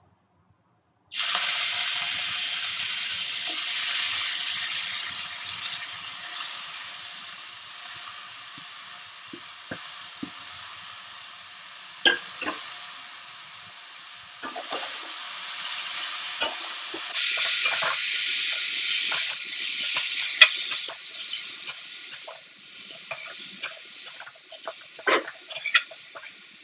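Shredded cabbage hitting hot oil in a kadai. A loud sizzle starts suddenly about a second in and slowly dies down, then flares up again for a few seconds later on. Throughout, a metal spatula scrapes and taps against the pan as the cabbage is stirred.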